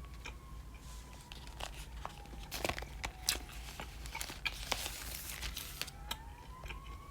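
Plastic packaging crinkling and tearing, with a dense run of sharp crackles in the middle.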